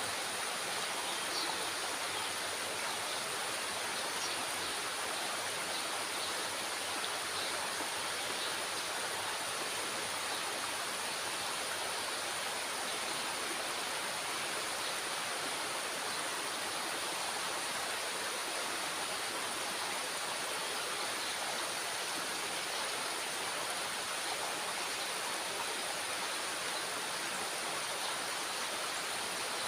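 Steady rush of water flowing through a dam's spillway gate.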